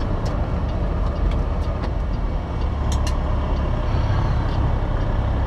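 Semi truck's diesel engine running with road and cab noise, heard from inside the cab: a steady low rumble, with a few faint light clicks.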